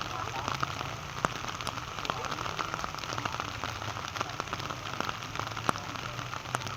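Steady rain falling, with many separate drops striking a surface. Two louder drop hits stand out, about a second in and again later.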